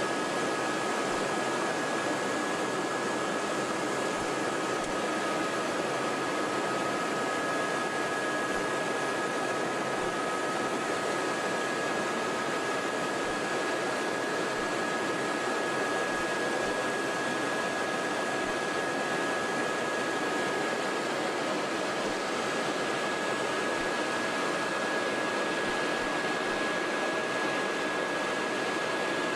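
Helicopter noise heard from inside the cabin in flight: a steady rushing drone with two steady high-pitched whines over it.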